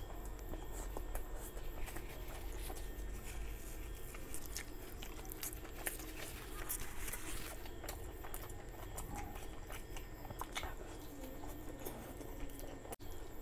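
Close-up sounds of a man chewing and biting a curried chicken leg with basmati rice: wet mouth smacks and many short clicks. The sound cuts out for a split second near the end.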